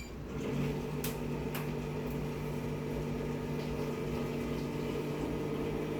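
A short electronic beep from a machine's control panel, then an electric transfer pump starts about half a second later and runs with a steady hum, pumping red ginseng extract across to the packaging machine.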